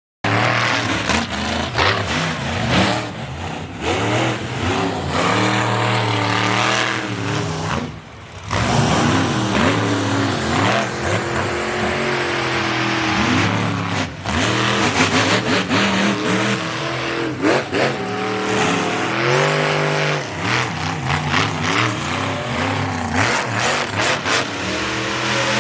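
Monster truck engine revving hard over and over, its pitch rising and falling as the throttle is worked.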